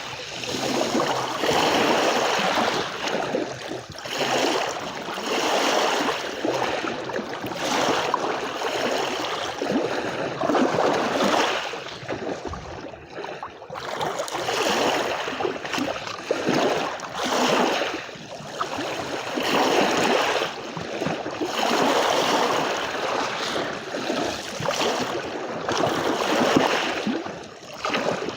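Small waves washing in on a beach, the water noise swelling and falling back every second or two.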